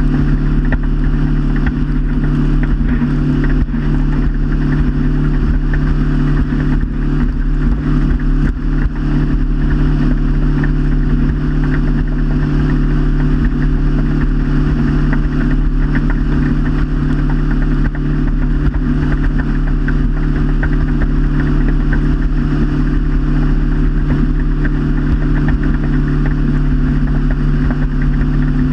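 Motorboat engine running steadily at cruising speed, with a constant drone and rushing wind and water noise.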